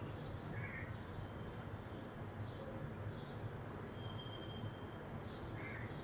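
Birds calling over a steady low rumble: two short calls about five seconds apart, with faint scattered chirps between.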